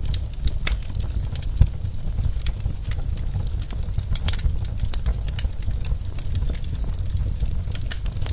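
Wood fire crackling in a clay fireplace: irregular sharp pops and snaps over a steady low rumble, with one louder pop about a second and a half in.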